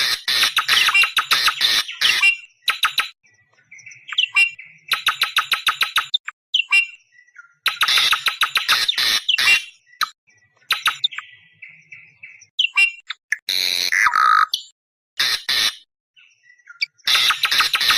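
Awar-awar bird calling, a lure call for drawing in wild awar-awar: loud bursts of fast, rapidly repeated high notes, each burst lasting a second or two with short gaps between. A few lower buzzy calls come between the bursts, and a harsher falling call comes about two-thirds of the way through.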